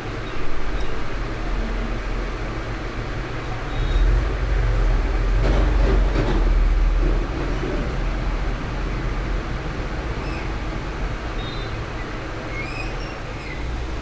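Hot air rework station blowing steadily, a noisy rush with a deep rumble that swells for a few seconds about four seconds in, as the phone's ringer IC is heated for replacement.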